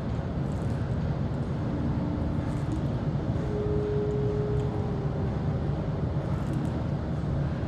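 Steady low rumble of background noise, with a faint steady hum for a second or so around the middle.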